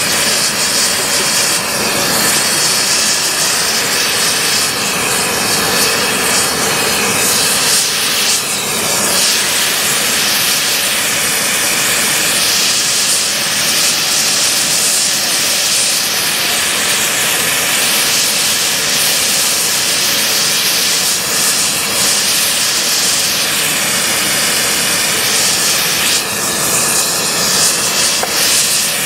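Gas preheating burner of a rail thermite-welding set heating the rail ends in the mould, running with a loud, steady hiss.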